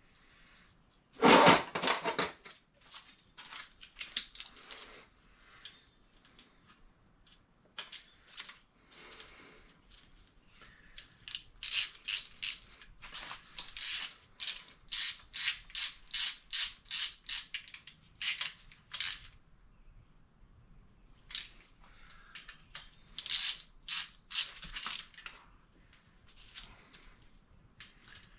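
Hand ratchet wrench clicking in runs of quick strokes, about two clicks a second, as bolts are run into an engine block. There is a louder metallic clank just over a second in.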